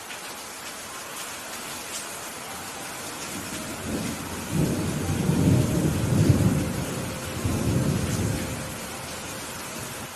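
Steady rain hissing, with a long rolling rumble of thunder that builds about a third of the way in, swells in several surges and dies away near the end.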